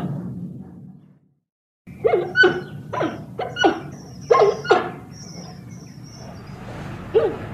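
Giant panda giving a quick run of about eight short calls, each falling in pitch, after a brief silence; one more call comes near the end.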